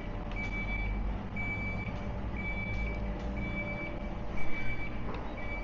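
Reversing alarm beeping steadily, a high tone about once a second, over a low rumble, with a brief knock about four seconds in.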